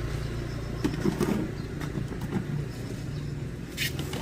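An engine running steadily at a low idle, with a few light knocks and clinks over it and a short hiss near the end.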